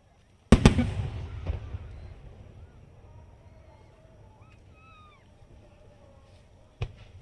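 Aerial fireworks shells bursting: a loud double bang about half a second in that rumbles and echoes away over a second or so, with a smaller crack inside the rumble, then another sharp bang near the end.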